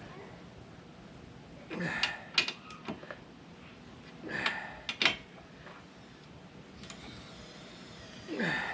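A wrench working on tractor mounting-plate bolts, heard as three short bouts of metal clicking and scraping with a couple of sharp clacks. The bolts are being retightened because they had worked loose.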